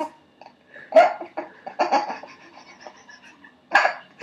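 A baby laughing in short, choppy, cough-like bursts: about a second in, around two seconds, and again near the end.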